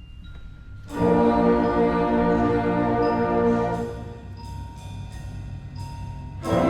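School concert band playing: a few soft, bell-like single notes, then about a second in the full band comes in with a loud held chord with brass and percussion. The chord dies back near the four-second mark, and the whole band enters loudly again near the end.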